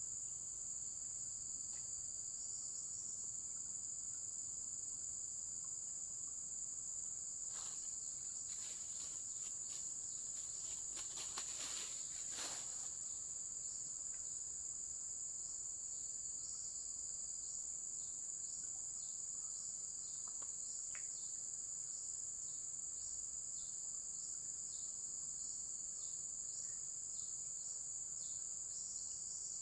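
A steady chorus of insects, several high-pitched trills at different pitches. Partway through, a few seconds of short clicks and rustles.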